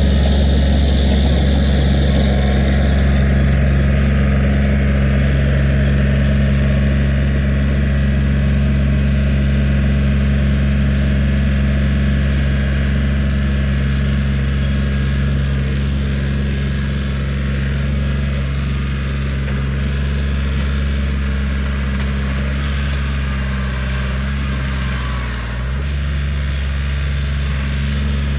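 Kioti 4010 tractor's diesel engine running steadily at a constant speed, with a brief dip in the engine note near the end.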